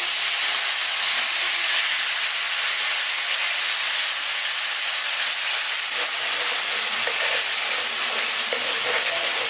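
Wet onion paste hitting hot oil in a kadai, sizzling with a loud, steady hiss. Near the end, a wooden spatula stirs the frying paste.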